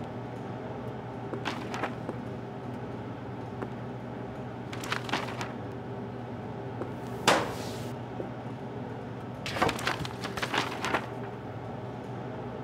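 A steady low electrical hum, with scattered clicks and knocks in small clusters. The loudest is a single sharp hit with a short hiss about seven seconds in.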